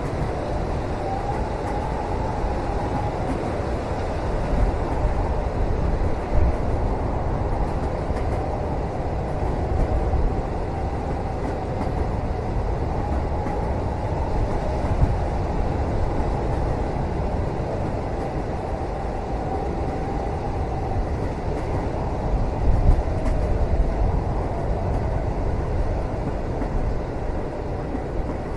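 Steady low rumble of a moving train heard from inside a passenger carriage, with a faint wavering whine above it and a few soft bumps, around six seconds in and again near twenty-three seconds.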